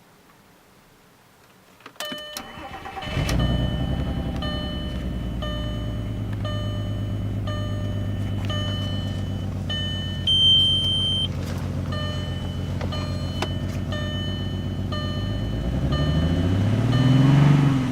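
2000 Volkswagen Jetta's VR6 engine cranked by the starter, catching about a second later and settling into idle, running with a misfire on one cylinder. It is revved once, briefly, near the end.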